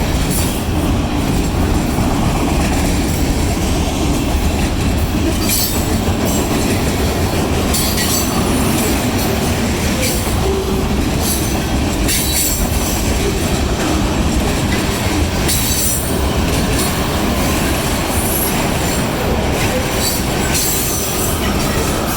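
Freight cars of a mixed manifest train rolling past close by: a steady heavy rumble of steel wheels on rail, with a short high-pitched screech every couple of seconds.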